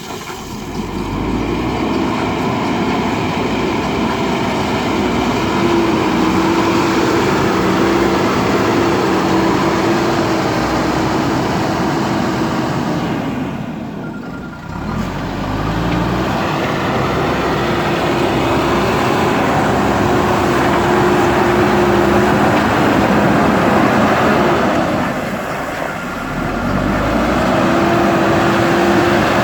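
JCB backhoe loader's diesel engine running hard under working load. It eases off briefly twice, about halfway through and near the end, and picks up again each time.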